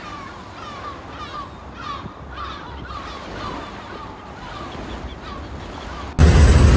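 A flock of gulls calling, with many short, repeated, overlapping cries over a steady background wash. About six seconds in, the sound cuts abruptly to a loud, steady rumble.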